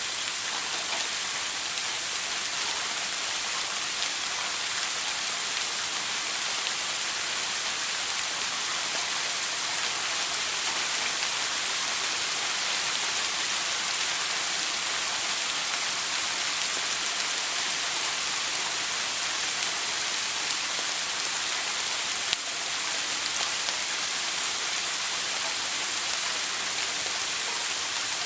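Shower water spraying steadily: a dense, even hiss with most of its weight in the upper range, broken only by a single brief tick about three-quarters of the way through.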